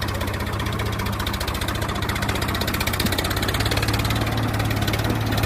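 Engine idling steadily with a fast, even beat, getting slightly louder in the second half.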